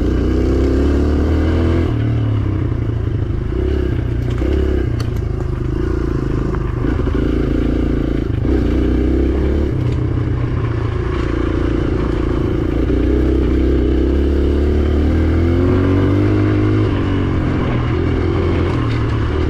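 Dirt bike engine revving up and down under changing throttle, its pitch rising and falling every second or two.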